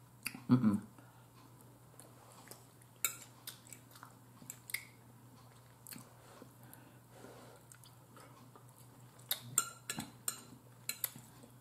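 Close-up mouth sounds of a person eating mustard greens: quiet chewing broken by short sharp clicks and smacks, several in quick succession near the end.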